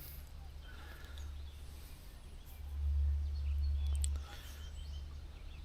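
Faint early-morning outdoor ambience: a low rumble that swells for about a second and a half midway, with a few faint high chirps like distant bird calls.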